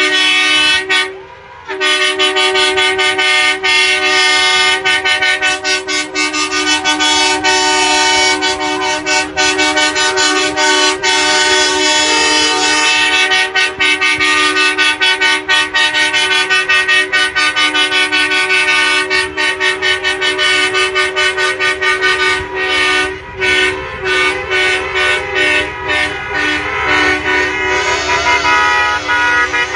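Many truck air horns and car horns honking together in a long, loud chorus of overlapping steady tones. The horns break off briefly about a second in, and from about two-thirds of the way through the sound turns into many quick, choppy toots.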